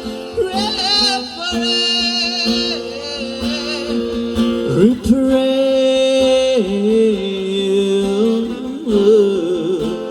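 Song with acoustic guitar and a voice singing long, wavering held notes without clear words.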